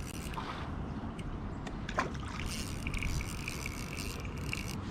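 Wind rumbling on the microphone and light water sounds around a kayak, with a few small clicks and a thin, steady high whir lasting about two seconds in the second half.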